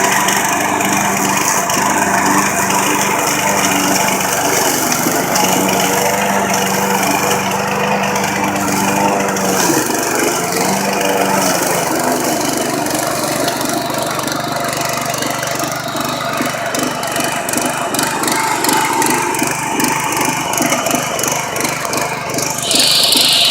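John Deere 14SE push mower's Kawasaki 4.5 hp OHV engine running while mowing. Its steady note changes about ten seconds in, and a loud hiss comes in near the end.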